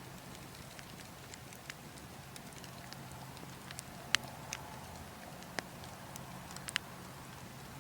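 Wood fire burning with irregular crackles and a few sharper pops, the loudest about four seconds in and near seven seconds, over a steady low background hum.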